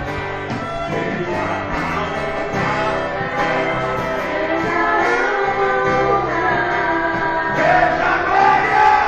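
A gospel group singing with guitar accompaniment, the voices swelling a little near the end.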